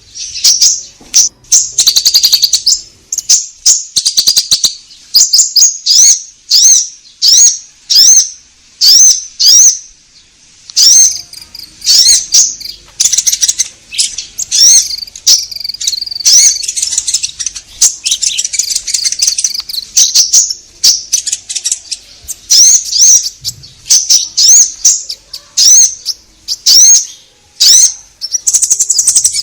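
Olive-backed sunbird (kolibri ninja) singing: loud, rapid, high-pitched chirps and trills in quick repeated phrases, pausing briefly about ten seconds in. It is a lure recording meant to provoke other sunbirds into answering.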